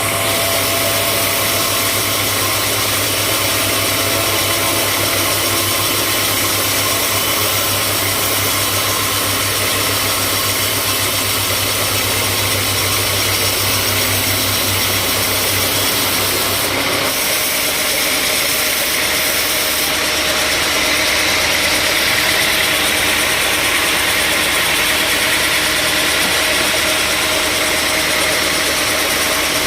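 Sawmill machinery running steadily with a continuous engine-like drone. About seventeen seconds in, a low hum drops out and the sound changes character, turning slightly brighter and hissier a few seconds later.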